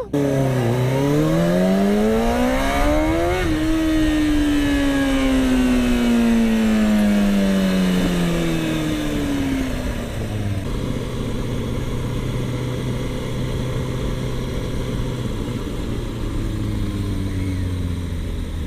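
Sport bike engine revving up under acceleration for about three seconds, then dropping steadily in pitch for several seconds as it slows. It settles to a steady low run from about halfway on.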